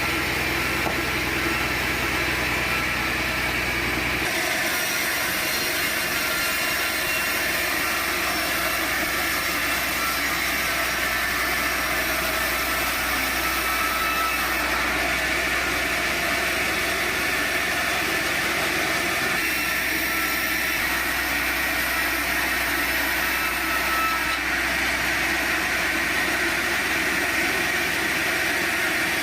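Sawmill machinery running steadily, with the hiss and hum of a large saw working on a log. About four seconds in, the low hum falls away and the higher hiss grows brighter.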